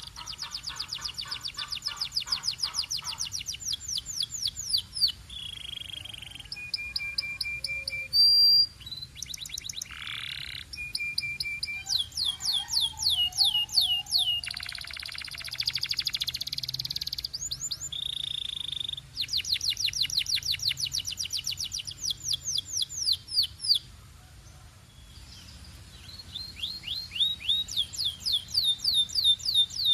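Belgian canary singing: long fast trills of rapidly repeated notes, broken by short held whistle notes and brief pauses. One loud burst comes about eight seconds in, and there is a quieter lull near the end before the trills resume.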